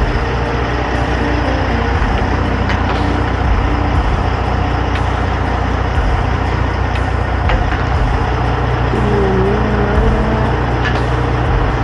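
Heavy truck running, with a steady low engine rumble and road noise.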